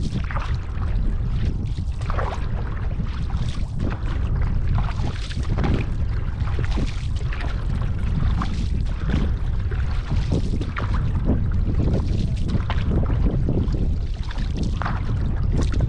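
Wind buffeting the microphone with a steady low rumble, over irregular water splashes and sloshing from canoe paddle strokes and small waves against the hull.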